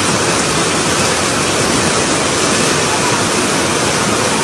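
Floodwater rushing in a loud, steady torrent, cutting off abruptly just after the end.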